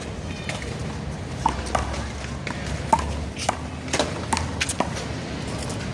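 Sharp slaps of a small rubber handball, struck by hand and bouncing off the wall and the pavement in a one-wall handball rally, about seven in a few seconds over a steady outdoor background.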